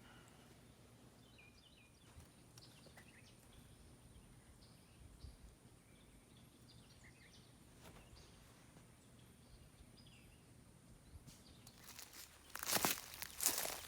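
Faint, scattered birds chirping over quiet outdoor air. About twelve seconds in, loud irregular crunching footsteps start up close.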